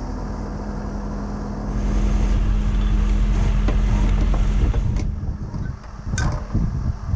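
Truck engine running with a steady low hum, growing louder about two seconds in and easing off about five seconds in, with a sharp knock about six seconds in.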